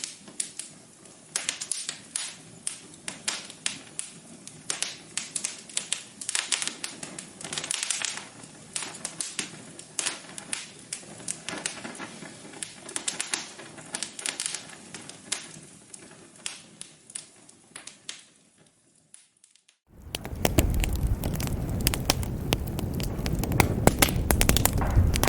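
Wood fire crackling in a fireplace, with many sharp irregular pops and snaps. Near the end it fades briefly to almost nothing, then a louder crackling fire with a low rumble cuts in abruptly.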